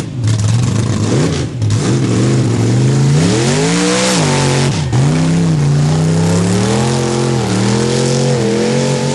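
Mud bog truck's engine at high throttle: it revs up over the first few seconds, drops sharply about five seconds in, then climbs back and holds high.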